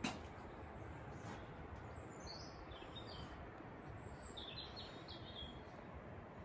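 A small bird calling two short bursts of high chirps, about two and four seconds in, over steady low outdoor background noise.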